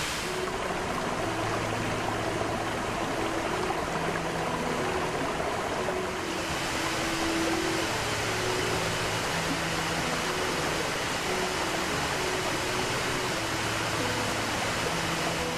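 Rushing creek water, a steady hiss that shifts in tone about six seconds in, under soft background music of held low notes.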